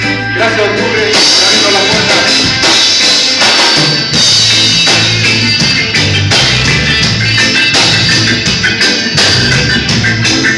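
Band music with a drum kit, cymbals and a moving bass line; a held low note gives way to the full band about a second in.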